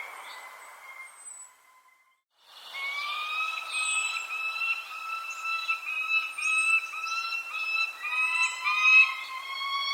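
Birds chirping: short high calls that fall in pitch, every second or so, over a steady, slightly wavering high whistle-like tone with overtones. Everything cuts out to near silence for about a second around two seconds in, then starts again.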